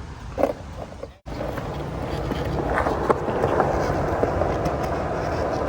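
Skateboard wheels rolling on concrete, the rumble growing gradually louder, with a few light clicks. A brief dead silence about a second in.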